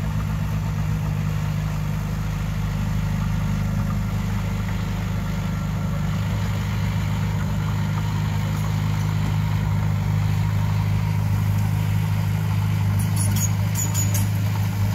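Diesel engine of heavy earthmoving machinery running steadily at an even low pitch, with a few light clicks near the end.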